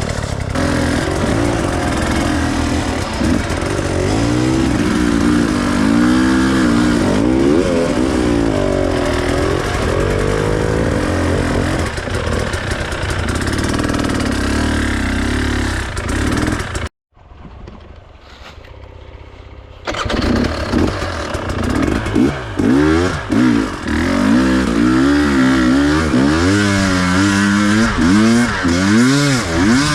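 Enduro dirt bike engine revving up and down repeatedly, its pitch rising and falling every second or so. A little past halfway the engine sound cuts out suddenly for about three seconds, then comes back revving hard again.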